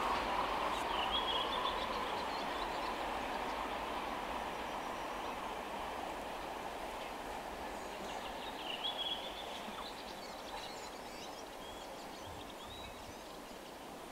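VR freight train rumbling along the rails, fading steadily as it recedes into the distance. A bird chirps a couple of times.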